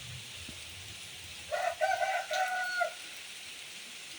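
A rooster crows once, a call of about a second and a half in three parts, over the steady hiss of light rain.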